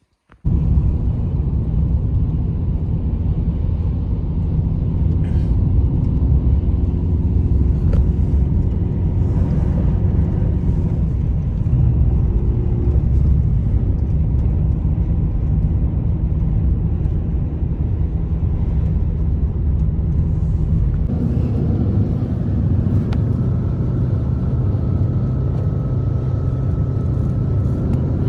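Strong blizzard wind blowing steadily, a low rumble of gusts buffeting the microphone, with a faint whistle coming in during the second half.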